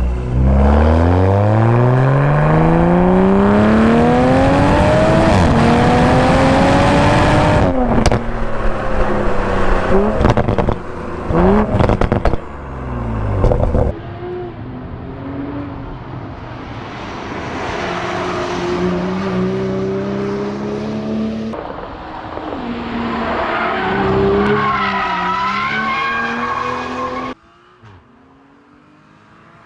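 Toyota GR Supra's engine and exhaust under hard acceleration, the pitch rising steadily through the revs for several seconds before a gear change. Then comes a spell of choppy revving with sharp crackles, and after a cut a quieter stretch of engine note rising and falling, ending abruptly.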